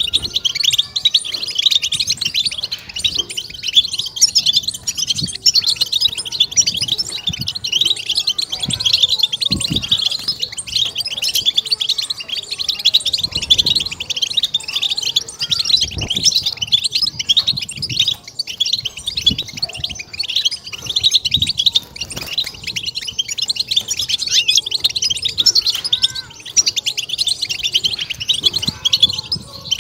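European goldfinch singing a fast, unbroken twittering song of rapid chirps and trills, the excited 'batbata' song used by keepers to stimulate other goldfinches.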